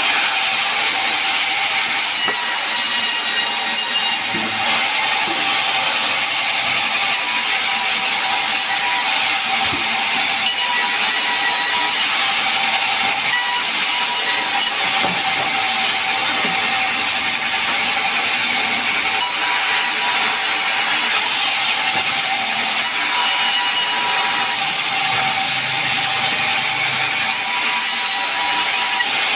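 Large sawmill saw running: a steady, high hissing whine with no break.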